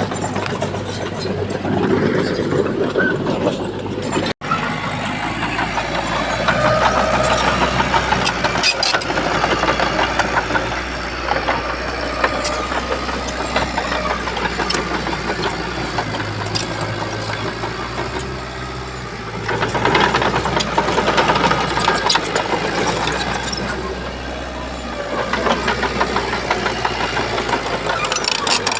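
Heavy diesel engine of a Shantui bulldozer running and swelling louder several times as it works, with scattered rattles and clicks. There is a brief dropout about four seconds in.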